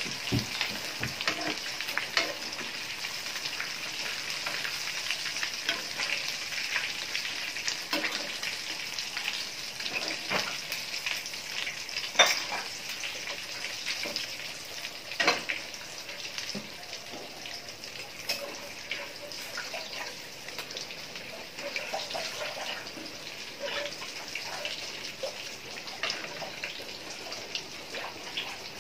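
Chicken pieces frying in hot oil in a wok, a steady sizzle throughout. A metal spatula and a wire strainer click and scrape against the pan, with the sharpest taps about 12 and 15 seconds in.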